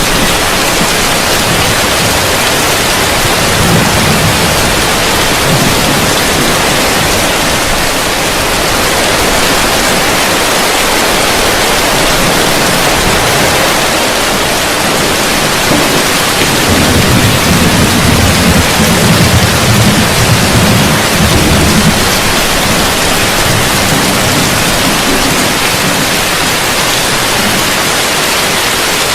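Heavy rain falling steadily on a roof. A low rumble of thunder comes about four seconds in, and a longer, louder rumble runs from about seventeen to twenty-two seconds.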